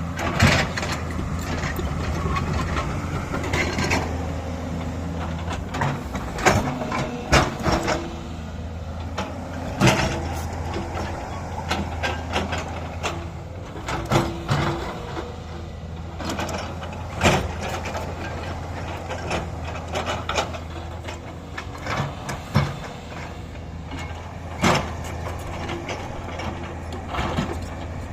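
Excavator's diesel engine running steadily under work, with frequent irregular metal clanks and knocks as it digs.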